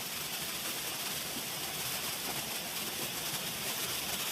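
Steady hiss of rushing river water.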